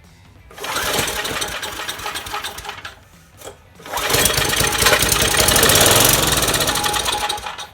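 Small engine of a Sears pressure washer, running on a shot of brake cleaner with no fuel in the tank: it fires and runs for about two seconds and dies, then catches again a second later and runs for about three and a half seconds before cutting out.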